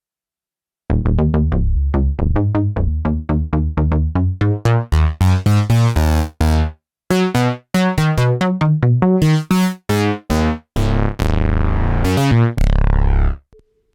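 Sequential OB-6 analog polyphonic synthesizer playing a patch demo. After about a second of silence it plays a fast pattern of short notes that jump between pitches, then ends on a longer held note that cuts off shortly before the end.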